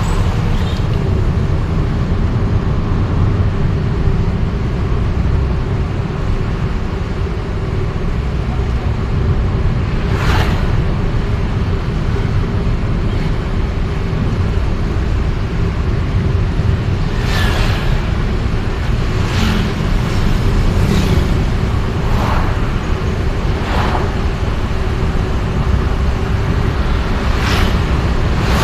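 Steady rumble of a moving vehicle in city traffic, with a faint steady engine hum and several brief louder noises from the traffic around it.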